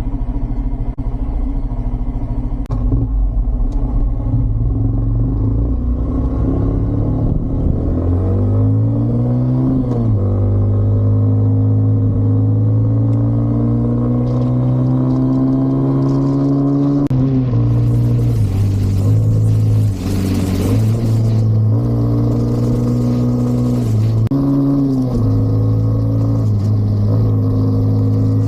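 Bristol motorcycle's engine running low and steady, then accelerating through the gears, its pitch rising and dropping back at each shift. Wind rushes over the microphone for a few seconds past the middle.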